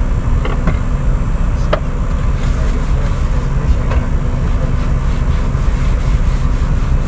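Steady low rumble of an idling diesel semi truck heard from inside its cab, with a couple of light clicks near the start.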